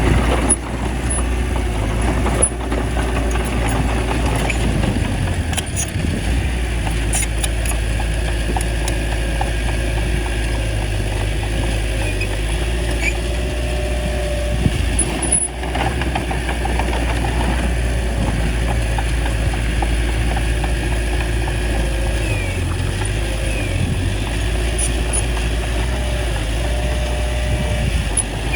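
Small bulldozer's diesel engine running steadily, with a few sharp knocks.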